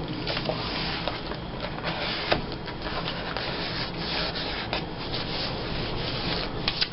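Paper being rubbed and pressed by hand as a cut-out picture is glued onto a page, a steady scratchy rubbing with a few small crinkles and taps.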